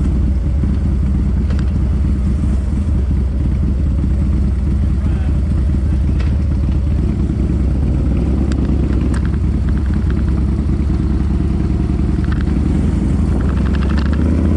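Harley-Davidson motorcycle's V-twin engine running steadily at riding speed.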